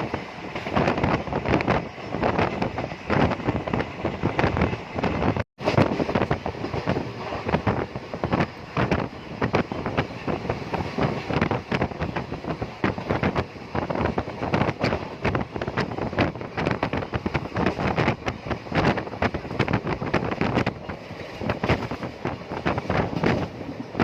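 Ride noise of a moving vehicle: a steady rush of wind over the microphone with frequent rattles and knocks. The sound cuts out for an instant about five and a half seconds in.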